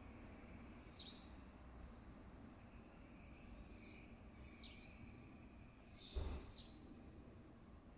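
Faint birds chirping: three short, high, falling calls spread across a few seconds over a quiet outdoor background. A brief low thump comes just after the second-to-last call.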